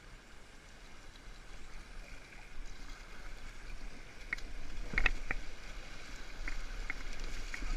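Rushing river water of a rapid around a kayak, muffled as heard through a GoPro's waterproof housing, growing louder partway through. Several sharp knocks come in the second half, the loudest about five seconds in.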